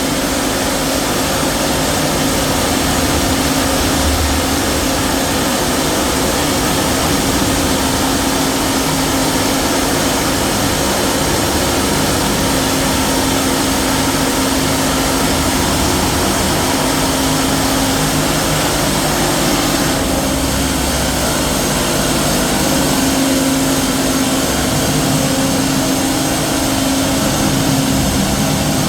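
Tunnel jumbo drill rig drilling blast holes into the rock at a tunnel face: a loud, steady mechanical din with a constant low hum underneath, running without a break.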